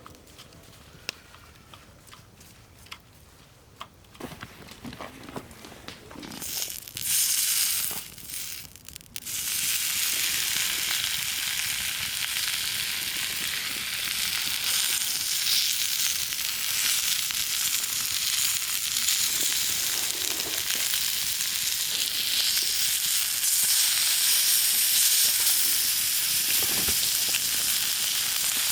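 Food sizzling in a hot pan over a campfire. It starts with a few quiet clicks and short bursts of handling, then a steady, loud sizzle sets in about a third of the way through and keeps going.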